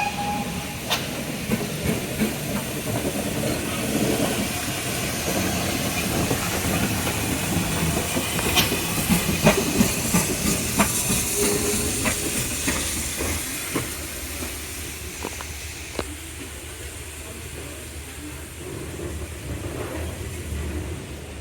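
A train running past, with a steady rushing hiss and scattered sharp clicks from the wheels on the track, growing quieter over the last few seconds.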